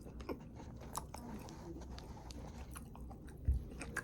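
A person chewing food close to the microphone, with soft wet smacks and small clicks at irregular intervals and a louder low thump about three and a half seconds in.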